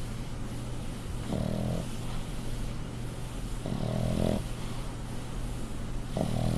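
A sleeping pug snoring: three deep snores about two and a half seconds apart, each about half a second long.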